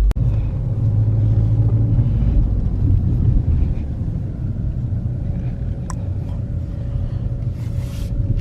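Car driving: a steady low engine and road rumble, with a faint steady whine above it.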